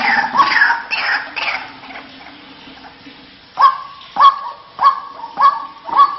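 White-breasted waterhen calling: a quick run of harsh, falling notes, then after a short lull a regular series of loud, sharp calls about every 0.6 seconds, five of them, starting about three and a half seconds in.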